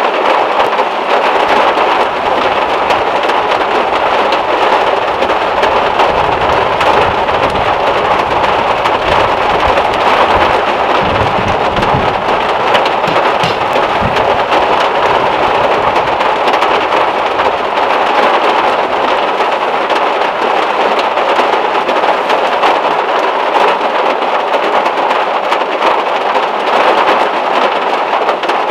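Heavy rain drumming steadily on a VW Beetle's metal roof, heard from inside the car. A low rumble of thunder swells and fades about a third of the way through.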